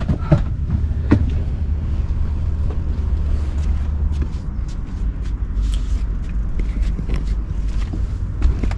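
Low, steady rumble of wind buffeting the microphone outdoors, with scattered light clicks and knocks; the sharpest comes about a second in.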